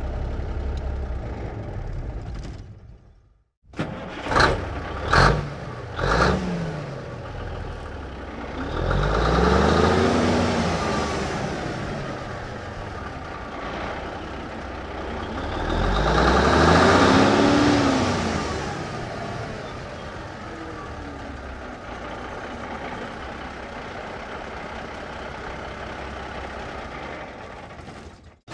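1954 big rig truck's engine: one recording fades out early, then the engine gives three quick revs. It revs up and back down twice in long swells, then settles to a steady idle that fades out near the end.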